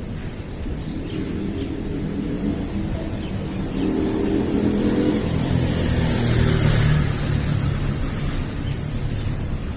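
A motor vehicle passing by: its engine hum and tyre hiss grow louder, peak about two-thirds of the way through, then fade, the engine note dropping as it goes past.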